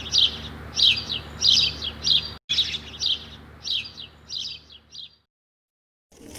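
A small bird chirping in a quick series of short, bright calls about twice a second, stopping about five seconds in, over a faint low hum.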